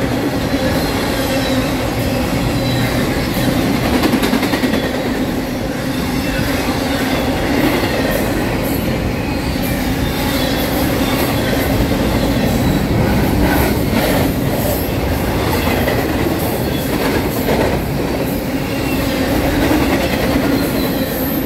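Norfolk Southern double-stack intermodal well cars rolling past close by: steady noise of steel wheels on the rails with a steady hum and a few clicks from the wheels.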